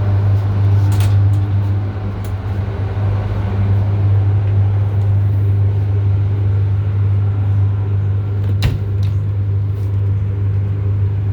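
Steady low machinery hum, with a single sharp click about three quarters of the way through.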